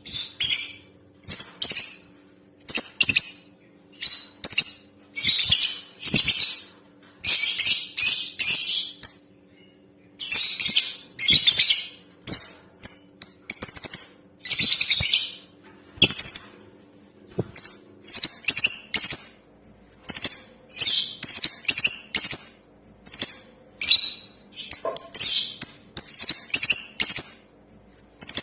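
Female lovebird calling: a long run of short bursts of shrill, high-pitched chattering, separated by brief pauses.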